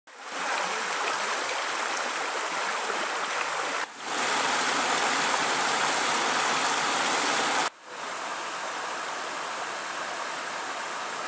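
Waterfall: a steady rush of falling water. It is broken by two sudden cuts, about four and eight seconds in, and comes back at a different loudness each time, quieter after the second.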